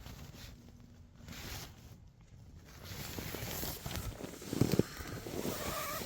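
Rustling and handling noises, growing louder partway through, with a couple of low thumps about four and a half seconds in.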